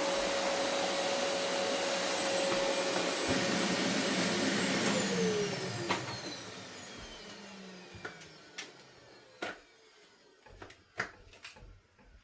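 Vacuum cleaner running steadily, then switched off about five seconds in, its motor winding down with a falling whine over a few seconds. After that comes a scatter of sharp clicks and knocks.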